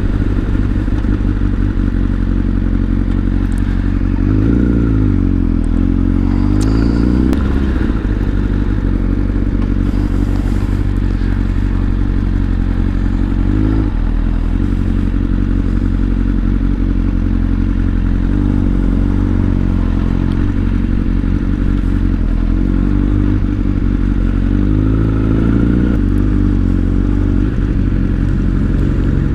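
Motorcycle running while being ridden, its pitch rising and falling a few times with changes in speed.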